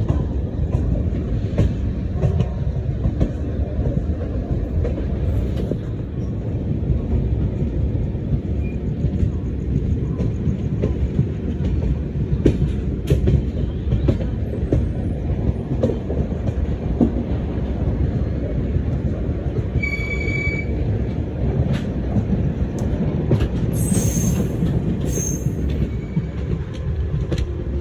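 Passenger train running at speed, heard from an open coach door: a steady rumble of wheels on rails, with scattered sharp clicks and knocks from rail joints and points. A brief high-pitched tone comes about 20 seconds in, and a burst of high hiss comes near the end.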